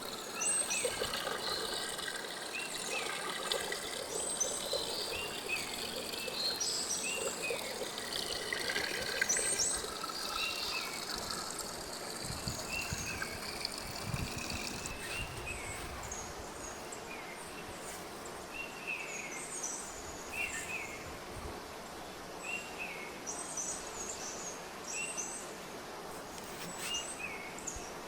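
Small birds calling with short, repeated chirps, some higher and some lower, over a steady outdoor background hiss.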